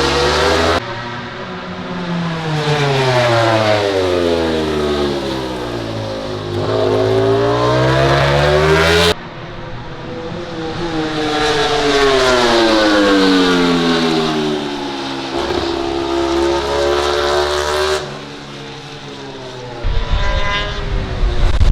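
MotoGP prototype racing motorcycles running on track. The engine pitch falls as a bike slows, then climbs again as it accelerates, twice, with abrupt breaks between passages. Near the end a closer, louder bike comes in.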